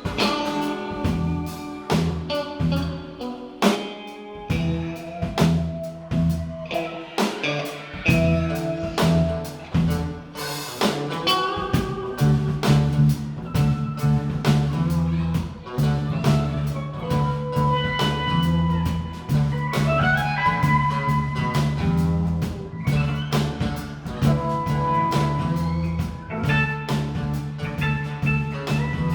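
Live band playing an instrumental passage: a drum kit keeps a busy beat under guitar lines and held low notes. About twelve seconds in, the low end fills out into a steadier groove.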